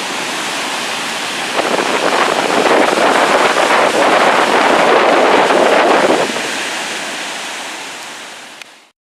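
Large waves on Lake Michigan breaking and rushing ashore in a gale, with wind buffeting the microphone. The surf swells louder about a second and a half in, eases after about six seconds, then fades out.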